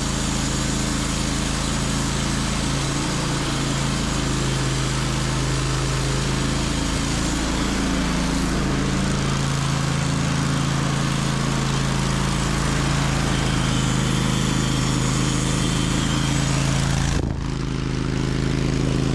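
Gasoline engine of a portable sawmill running steadily, its pitch wavering a little in the first half. The sound breaks off abruptly about seventeen seconds in and then carries on unchanged.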